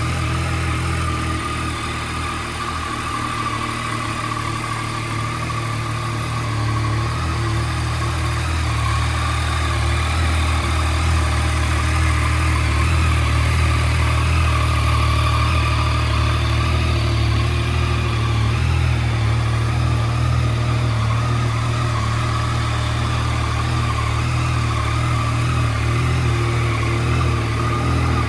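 Yamaha MT-09 Tracer's 847 cc inline three-cylinder engine idling steadily after a start-up.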